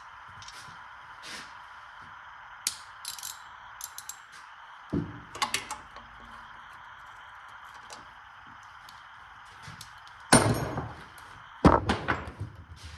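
Short metallic clinks and knocks of hand tools being worked against the engine, with two louder clatters near the end, over a steady background hiss.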